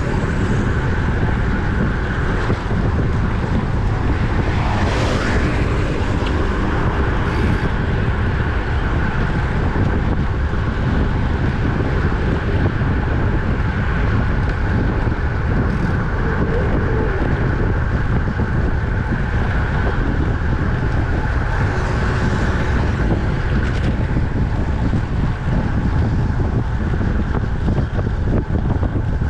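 Wind rumbling on the microphone of a camera riding along on a road bicycle at speed, with steady tyre and road noise under it. There is a brief louder swell about five seconds in.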